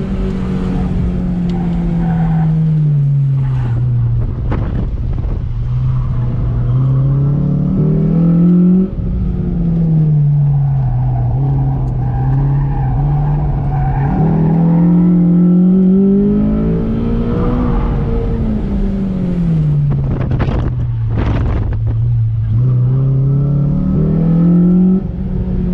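Honda Civic Si's 2.0-litre four-cylinder engine, breathing through an aftermarket header and Invidia Q300 cat-back exhaust, revving hard under an autocross run. Its pitch falls as the car slows and climbs again as it accelerates, about three times over, with a brief lift off the throttle about nine seconds in.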